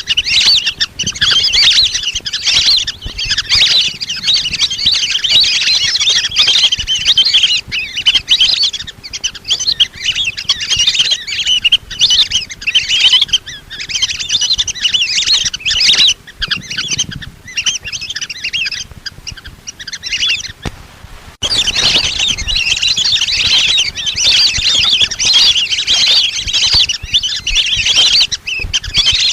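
A flock of lesser whistling ducks calling, a dense chatter of high whistles that breaks off for about a second some twenty seconds in and then resumes. This is the flock call used as a hunter's lure to bring the ducks in.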